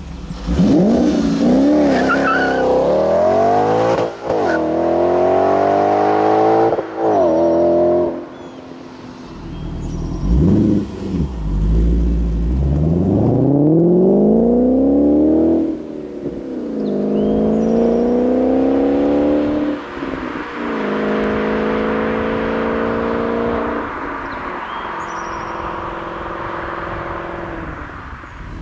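Audi S5's supercharged 4.2-litre V8 running through a straight-through performance exhaust, accelerating hard through the gears. The note climbs and then drops sharply at each upshift, several times, before settling to a steadier cruise in the last several seconds.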